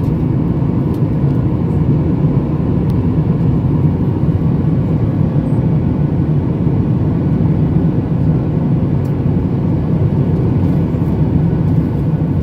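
Steady jet airliner cabin noise during the climb after takeoff: a constant low rumble of engines and rushing air.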